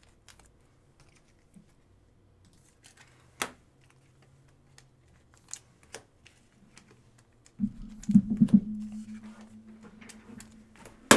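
Trading cards and card packs being handled, with scattered light clicks and one sharper click about three and a half seconds in. From about two thirds of the way through, a low steady hum comes in with a few loud pulses at its start, and a sharp click comes near the end.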